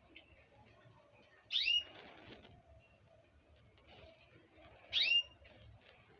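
A small bird calling: two short calls about three and a half seconds apart, each sliding quickly down in pitch.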